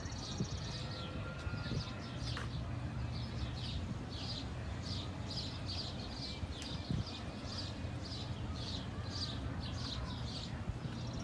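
Small birds chirping repeatedly, short high chirps about two or three a second, over a steady low hum.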